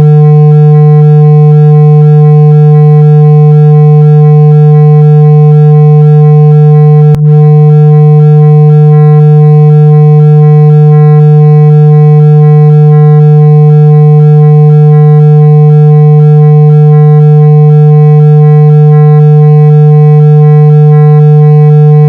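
Loud, steady 165 Hz tone, a continuous low hum played to vibrate water out of a phone speaker, with one brief click about seven seconds in.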